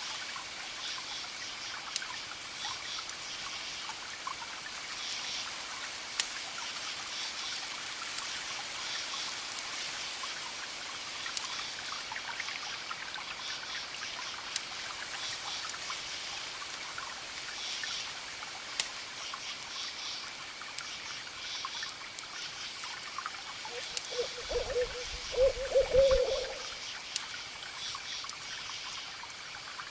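Campfire crackling with scattered sharp pops, crickets chirping in repeating pulses over a steady high trill, and a steady wash of distant ocean waves. Near the end a low, wavering call of about two seconds is the loudest sound.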